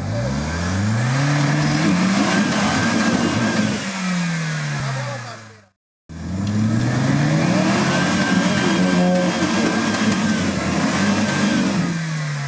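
Off-road 4x4's engine revving up hard, held at high revs and then dropping away, twice, each run ending in an abrupt cut.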